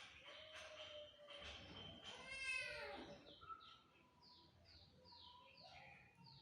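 A cat meowing: one drawn-out meow about two seconds in that drops in pitch as it ends. In the second half, short high chirps repeat every half second or so.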